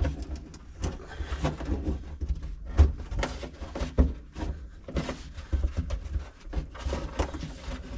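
Irregular clicks and knocks from hands-on work, two of them louder about three and four seconds in, over a low steady rumble.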